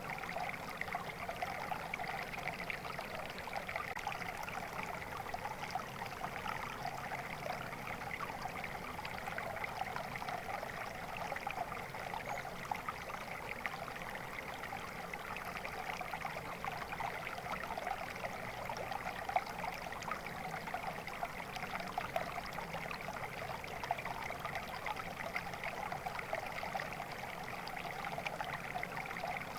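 Shallow stream water flowing and trickling in a steady, even babble.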